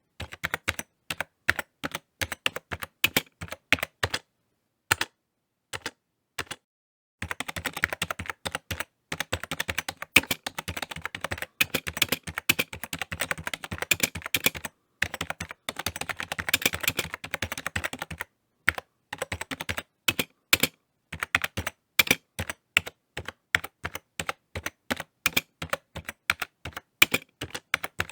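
Typing on a computer keyboard: bursts of quick key clicks with short pauses, a long fast run through the middle, slower separate keystrokes near the end.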